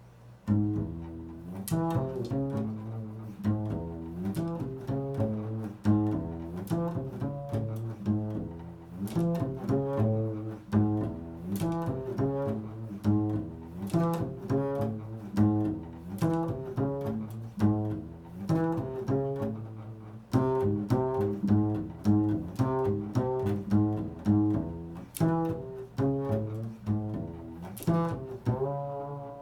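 Improvised solo music on a plucked string instrument: a continuous run of quick plucked notes with ringing low tones, starting about half a second in.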